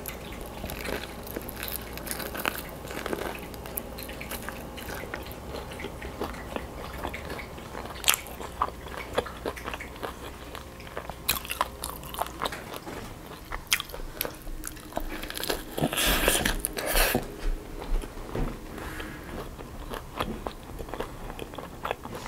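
Close-miked eating: crisp fried chicken coated in stretchy melted cheese being bitten and chewed, with many short, irregular crunches, loudest around sixteen seconds in.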